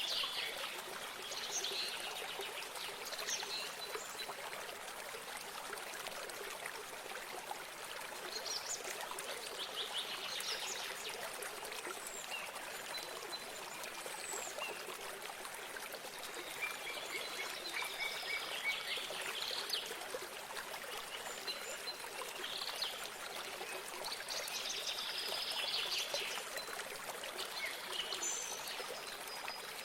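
Small stream of water trickling steadily, with songbirds chirping and trilling on and off every few seconds.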